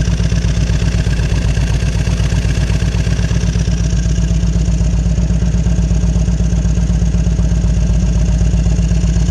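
Fuel-injected V-twin engine of a 1998 Harley-Davidson Road King Classic running steadily with an even, rapid beat.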